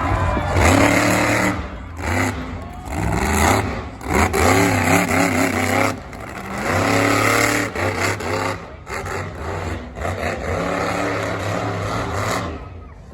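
Monster truck engine revving hard in repeated bursts, its pitch rising and falling with each blip of the throttle.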